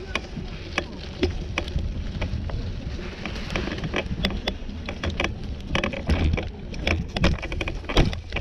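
Wind rumbling on the microphone of a camera on a moving bicycle, with frequent sharp clicks and rattling knocks throughout.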